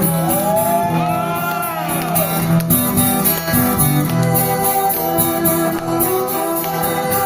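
Live rock band playing a song's instrumental intro, with guitar prominent; in the first two seconds a high pitched line slides up and back down over the band.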